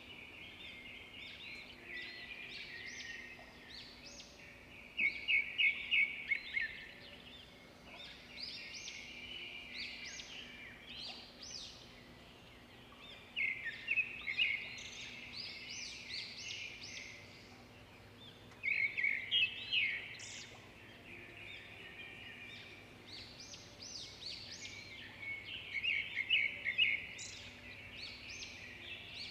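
Birds chirping and twittering, with four louder bursts of rapid, closely repeated chirps.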